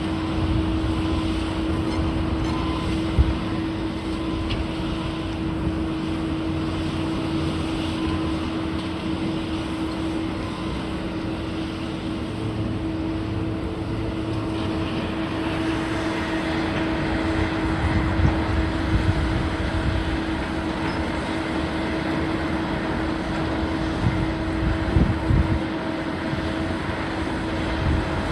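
Heavy demolition machinery running steadily: a constant droning hum over a low rumble, with a few short knocks along the way.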